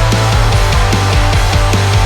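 Instrumental punk rock: distorted electric guitar, bass and a drum kit playing a fast, steady beat.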